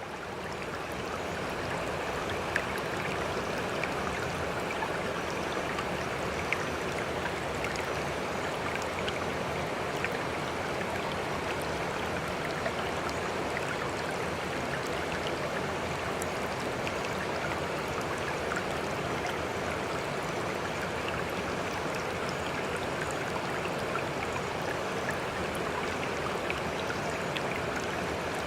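Steady running water with faint scattered ticks through it, fading in over the first second.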